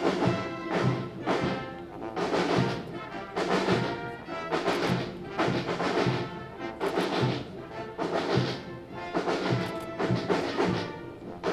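Brass band playing a march, with brass and drums over a steady beat.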